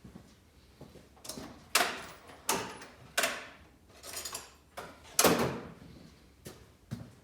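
A string of irregular knocks and clunks, each with a short fading ring, as tools and parts are handled and set down on a shop bench. The loudest comes about two seconds in and again about five seconds in.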